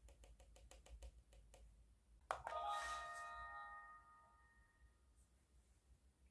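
A run of faint quick ticks, then a sharp click followed by an electronic chime from a Hachuping toy compact that rings and fades over a couple of seconds.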